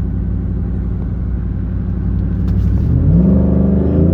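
Ford 5.0 V8 engine running hard under load while towing, with a steady low drone whose revs climb steeply about three seconds in.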